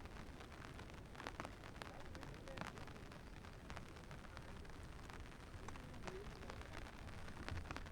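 Rain falling, with individual drops ticking irregularly over a steady hiss.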